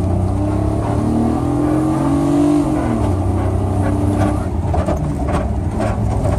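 Infiniti i30's 3.0-litre V6 through a 2.5-inch straight-pipe exhaust, accelerating: its note climbs for about two and a half seconds, then drops as the automatic gearbox shifts up, and the engine pulls on at a steadier, lower pitch.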